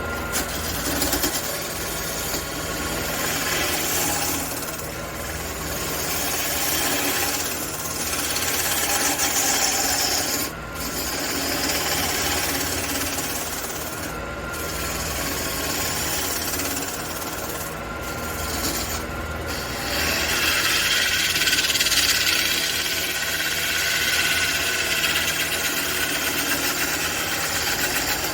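Wood lathe running with a steady hum while something rubs against the spinning red cedar workpiece in a continuous scratchy rasp, likely sandpaper. The rasp breaks off briefly a few times, as the contact is lifted.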